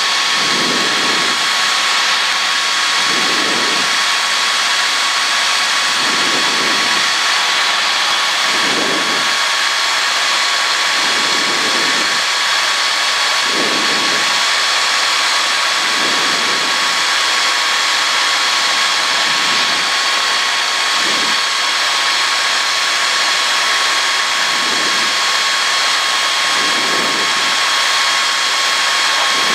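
Cockpit drone of a Cessna 152's four-cylinder Lycoming engine and propeller on final approach: a steady, loud noise with a thin high whine and a slow throb about every two seconds.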